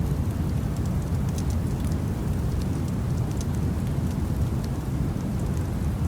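Steady, deep noise bed with small crackles of a fireplace fire ticking irregularly on top.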